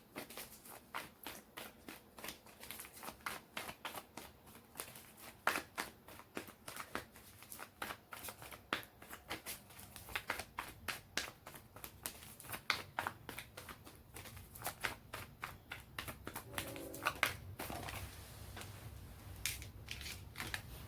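A deck of tarot cards being shuffled by hand, a long, uneven run of quick soft card clicks and riffles.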